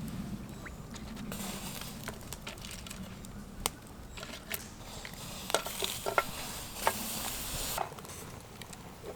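Food sizzling in cookware, the hiss starting about a second in and cutting off near the end, with several sharp clicks and taps of a utensil against the cookware.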